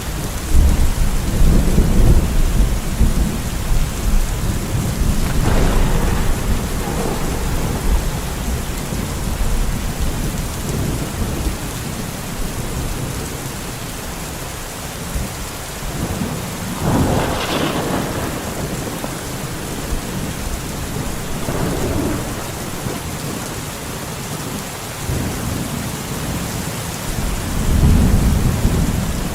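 Steady rain falling with thunder rolling several times over it, low rumbles that swell and fade, the loudest in the first few seconds and again near the end.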